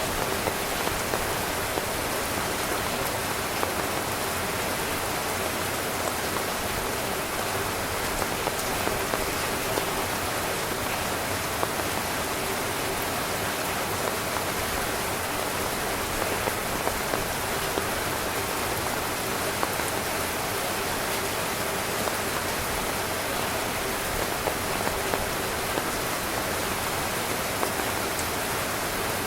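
Steady rain falling on a tent, a continuous even hiss with frequent small taps of individual drops hitting the fabric.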